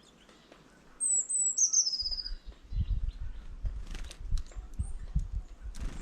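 A small songbird calls once: a quick run of high chirps falling in pitch, ending in a short trill. From about two seconds in come low irregular rumbling and a few sharp knocks.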